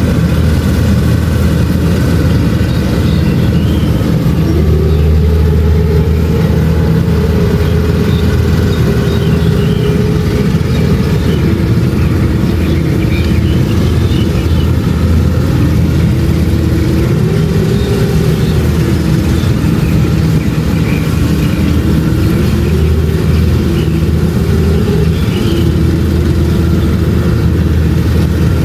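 Kubota DC-70 Plus combine harvester running steadily while harvesting rice: the diesel engine and threshing machinery make a continuous drone whose pitch shifts up and down slightly every few seconds.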